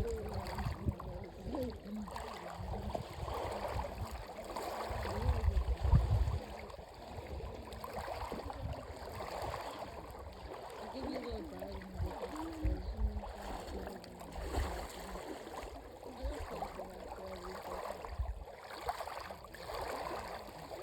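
Dead Sea water sloshing and splashing gently around bathers, with irregular low rumbling buffets on the microphone that are strongest about five seconds in.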